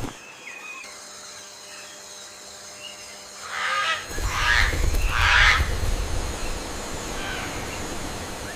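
Rainforest ambience with faint short bird chirps. About halfway through come three or four loud rustling bursts over a low rumble, then a steadier background hiss.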